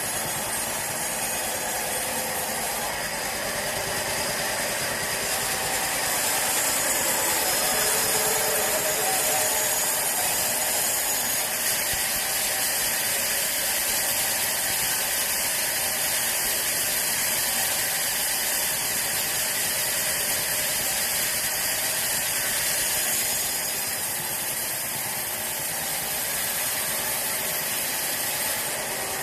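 Sawmill machinery running steadily with a dense mechanical noise, a little louder from about six seconds in until about twenty-three seconds in.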